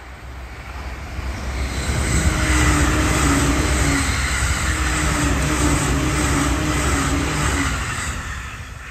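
E657-series limited express electric train passing at speed: the rush of its wheels on the rails swells over the first two seconds and holds loud with a steady hum for several seconds, then fades as the last cars go by.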